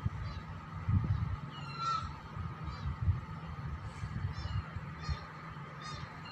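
Small birds chirping in short, high calls every second or so, over a continuous low, uneven rumble.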